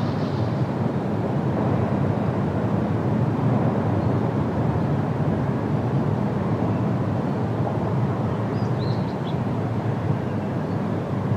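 Steady wind rushing through trees, with a few brief high bird chirps about three-quarters of the way through.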